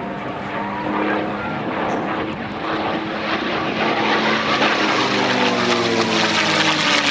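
P-51 Mustang's V12 engine running as the fighter flies past, growing louder, with its pitch dropping over the last couple of seconds as it goes by.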